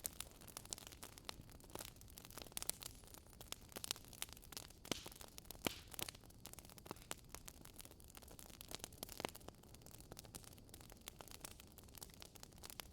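Wood fire crackling: irregular sharp pops and snaps over a low hiss.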